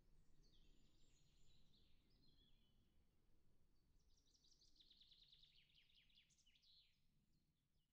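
Faint birdsong: a few short chirps, then a rapid trill lasting about three seconds, over a low background rumble that fades out near the end.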